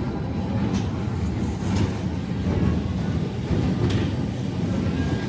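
Train running with a steady rumble, broken by a few short sharp clicks.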